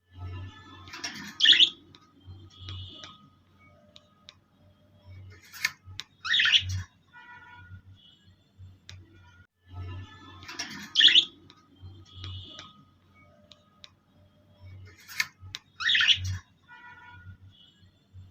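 Pet birds chirping and squawking in short, loud bursts, the same run of calls repeating about every nine and a half seconds.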